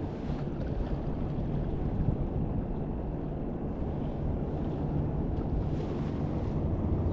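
Small boat's motor running steadily, with wind buffeting the microphone and water noise.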